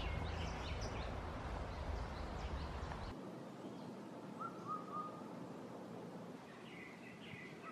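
Wild birds chirping and giving short whistled notes over a steady outdoor hiss. A low rumble underneath stops abruptly about three seconds in.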